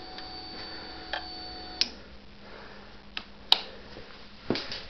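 Several sharp clicks at irregular intervals over a faint steady electrical hum.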